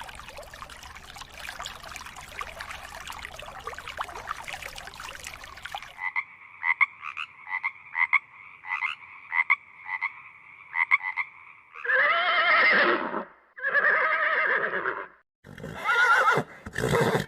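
Frogs croaking in a run of short, repeated calls over a crackling background. Then a horse whinnies three times, loud calls that waver in pitch.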